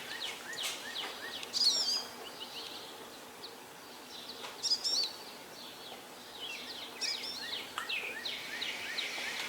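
Wild birds singing and chirping, one bird repeating a short warbled phrase about every three seconds over a steady background hiss.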